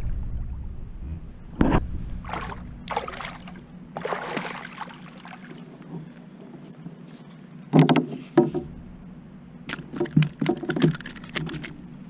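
Water splashing and knocking around a sit-on kayak, in a series of irregular short bursts over a steady low hum.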